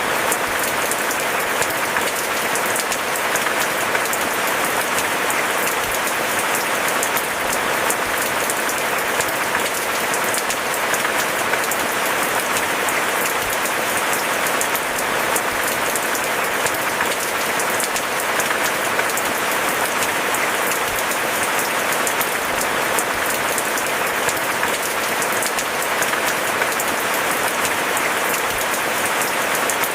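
Steady rain falling: a dense, even patter of drops that neither builds nor fades.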